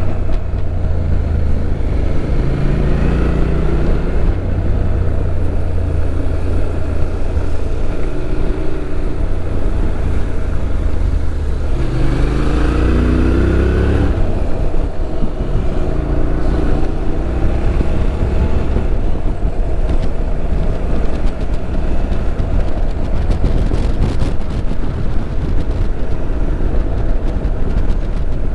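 Motorcycle engine running under way, its pitch climbing several times as it accelerates, then dropping back.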